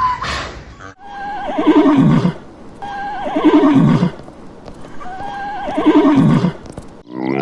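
Horse whinnying three times, about two seconds apart: each neigh starts high and quavering, then falls into a lower shuddering trill.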